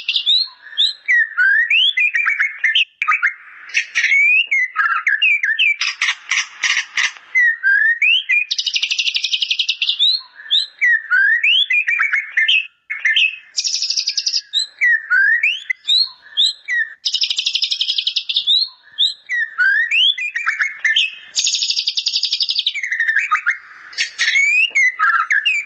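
White-rumped shama singing continuously: quick slurred whistles alternating with about one-second buzzy trills and a rapid rattling phrase about six seconds in. The song is loaded with imitated bar-winged prinia (ciblek) phrases.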